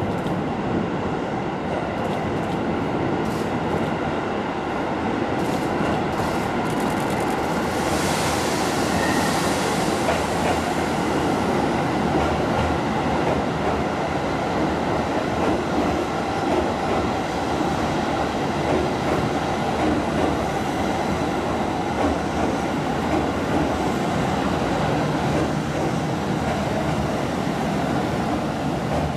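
Keisei electric commuter train running along an underground station platform: a steady rumble of wheels and motors with some wheel clatter, and a hiss about eight seconds in.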